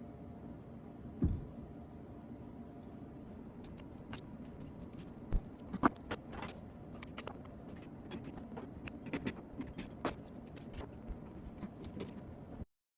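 Small metallic clinks and knocks of objects being handled, over a steady low hum; the sound cuts off abruptly near the end.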